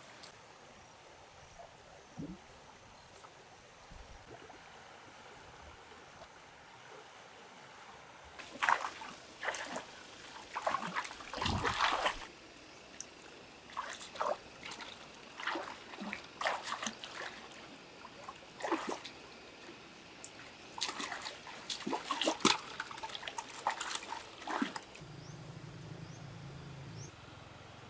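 Water splashing and sloshing in irregular bursts, starting about eight seconds in after a quieter stretch.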